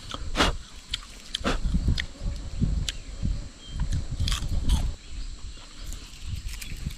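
A person chewing and crunching a cicada close to the microphone: irregular wet chewing with crisp clicks of the shell breaking.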